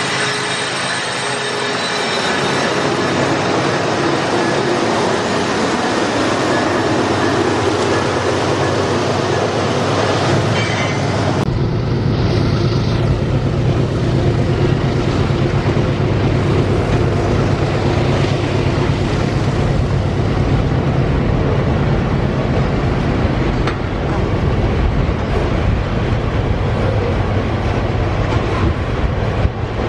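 Loaded iron-ore freight wagons rolling past steadily on the rails. About eleven seconds in, the sound changes abruptly to a deeper, heavier rumble.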